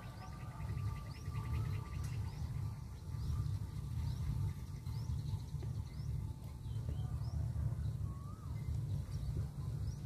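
A small bird gives short, high, rising chirps about once a second, with a few lower curving call notes, over a steady low rumble.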